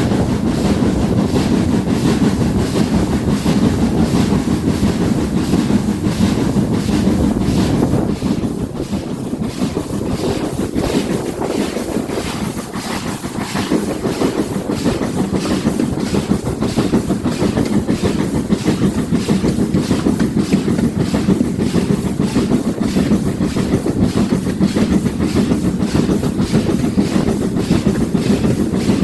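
Steam train hauled by GWR 4079 Pendennis Castle running along the line with a steady rhythmic beat, a little quieter in the middle.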